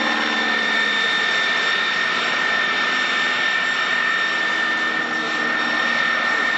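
Piston aero engines of First World War fighter aircraft droning steadily in flight, at an even level.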